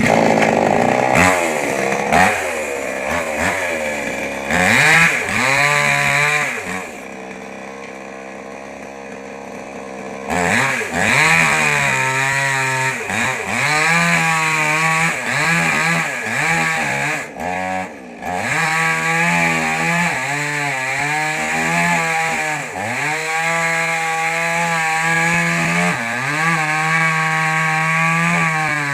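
Mini petrol chainsaw cutting wood, its engine revving up and down again and again under load. It drops to a steadier, quieter idle for a few seconds near the start, then revs back up.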